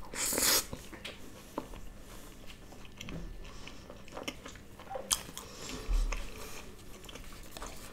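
Close-miked chewing and mouth sounds of a person eating a bite of puri (puffed fried bread) with paneer butter masala gravy by hand. A louder wet mouth sound comes just after the start as the bite goes in, followed by quieter chewing with small clicks.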